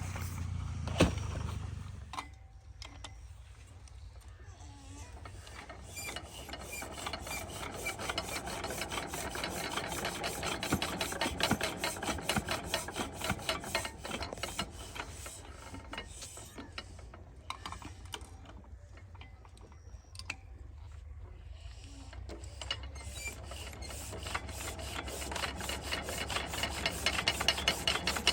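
Stationary diesel water-pump engine making a fast, even mechanical clatter that grows louder toward the end.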